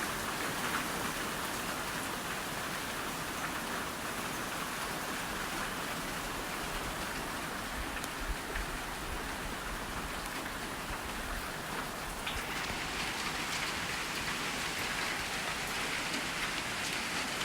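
Heavy thunderstorm rain pouring down, a steady even hiss that grows a little brighter about twelve seconds in.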